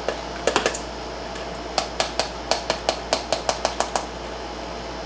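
A spoon tapping against the rim of a dish: three quick clicks, then a rapid run of about a dozen even taps, knocking sticky preserves off the spoon.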